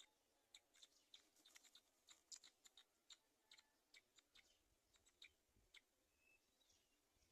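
Faint, irregular high-pitched clicks and short chirps in quick succession, from black-winged kites feeding at the nest.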